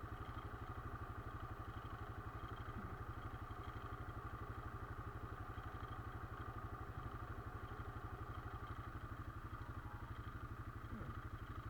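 Quad bike engine running at a steady, unchanging speed, with an even pulsing beat.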